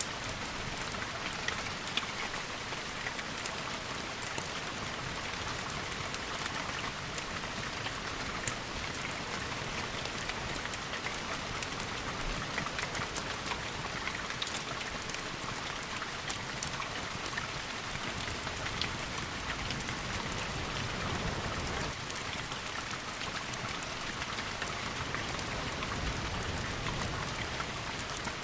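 Steady rain falling, with many small sharp ticks of drops striking a surface, over a low rumble that swells now and then.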